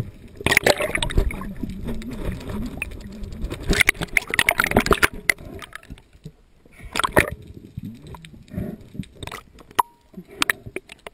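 Water sloshing and gurgling around a camera filming underwater, with many irregular sharp clicks and knocks.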